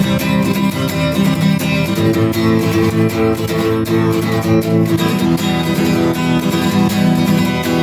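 Acoustic guitar strummed in a steady rhythm as a song's intro, changing chord about two seconds in.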